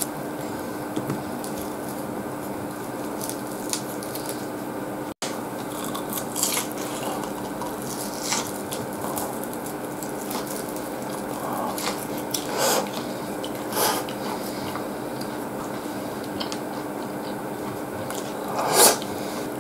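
Close-up eating sounds of a man biting and chewing breaded pork cutlet (katsu) from a katsudon plate, with chopsticks handling the food. A few short, sharper bite and chopstick sounds stand out over a steady low hum, the loudest near the end; the sound cuts out for an instant about five seconds in.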